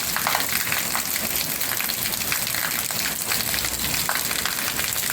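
Heavy rain coming down in buckets: a steady hiss of downpour with many close drops spattering and dripping.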